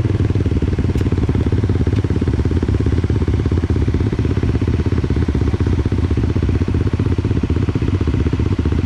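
Dirt bike engine running steadily at an even pace, its firing a fast, regular pulse that holds unchanged throughout.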